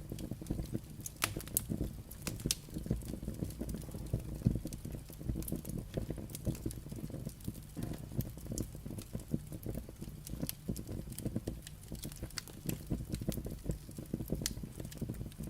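Burning firewood crackling: frequent sharp pops and snaps over a steady low rumble of flame.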